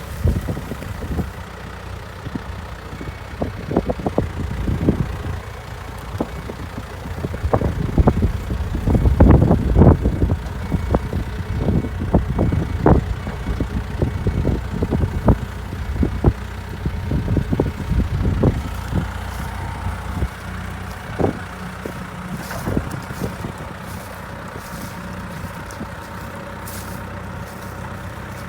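Hydrema 912 dumper's diesel engine running, with repeated knocks and clanks over it, most of them in the first two-thirds. A run of faint sharp ticks comes near the end.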